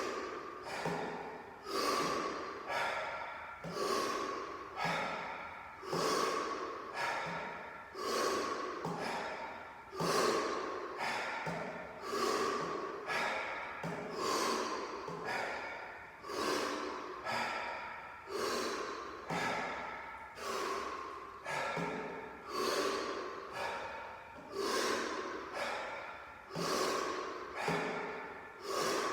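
A man doing Wim Hof power breathing: rapid, deep, forceful breaths in and out through the mouth, about one a second, in a steady rhythm.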